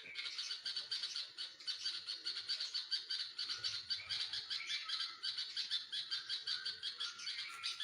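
Baby birds in a nest chirping in a rapid, unbroken stream of several high calls a second, the typical sound of nestlings begging for food.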